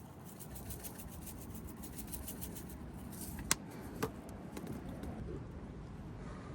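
Campfire crackling with scattered small ticks, and two sharp pops about three and a half and four seconds in, over a low steady background rumble.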